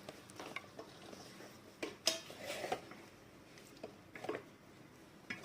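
Kitchen utensils clinking and knocking against a bowl or dish in a few scattered bursts of clatter, the busiest stretch about two seconds in, while marinade ingredients are handled and mixed.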